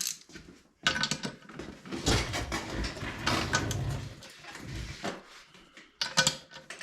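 Hand tools and metal parts clinking and rattling in a run of irregular knocks and clatter, as heater components are worked loose and handled.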